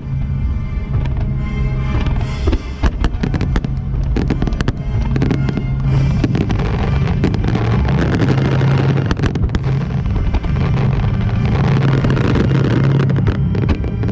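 A large fireworks display bursting and crackling in rapid succession over loud music. From about six seconds in the bursts thicken into a dense, continuous crackle.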